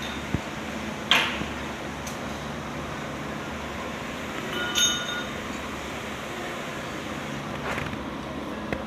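Steady mechanical hum with a few sharp clicks, and a brief ringing metallic clink about five seconds in.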